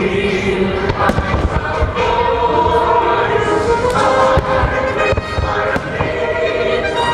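Fireworks shells bursting in a series of bangs over the show's patriotic orchestral soundtrack, which has held, choir-like chords playing over loudspeakers.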